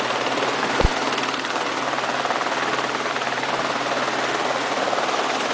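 Eurocopter AS350 helicopter running steadily on the ground, turbine and main rotor turning, while it waits for takeoff clearance. A single short click comes just under a second in.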